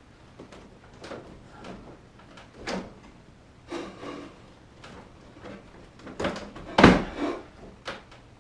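Scraping, rubbing and knocking as a model railway hillside section is manoeuvred and fitted into place on the layout, with a series of short knocks and a loudest bump about seven seconds in.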